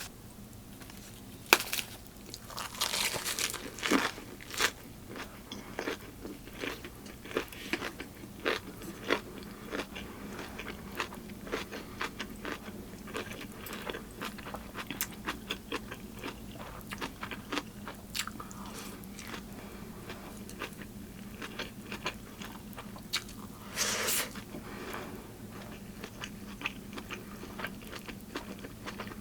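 Close-miked eating: crisp, crunchy bites and chewing of Korean side dishes and pork, with many small crackles throughout and a sharp click about a second and a half in.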